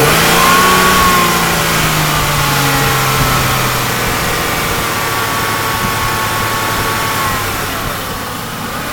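2002 Hyundai Sonata engine revved up sharply at the start, held at raised speed as it slowly sags, then dropping back toward idle near the end.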